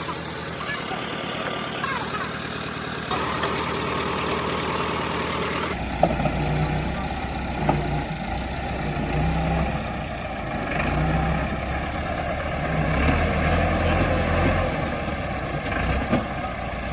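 Heavy diesel tractor engines running steady; about six seconds in the sound changes abruptly to a deeper, steady engine drone.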